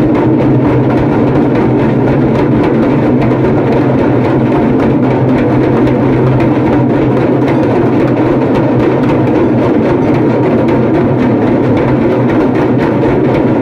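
A group of damrus, small two-headed hand drums, played together in a loud, fast, unbroken rattle.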